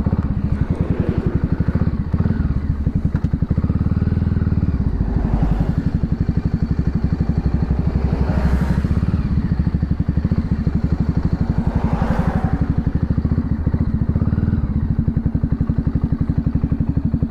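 Voge 300 Rally's single-cylinder engine running steadily at cruising speed. Three times a whoosh swells and fades.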